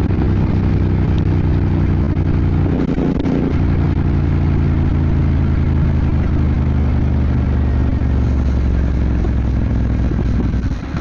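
Royal Enfield Bear 650's parallel-twin engine running steadily while riding. Its note shifts about three seconds in and dips briefly near the end.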